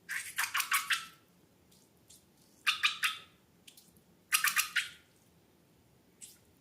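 Slime being squeezed and worked by hand, popping and crackling in three short bursts of rapid wet clicks about a second and a half apart.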